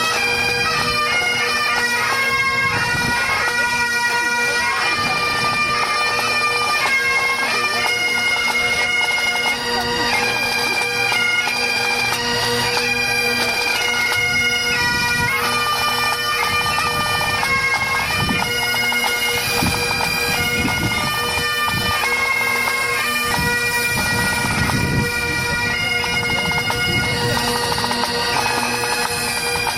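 Pipe band playing Highland bagpipes: a steady drone holds under the chanter melody, which steps from one held note to the next.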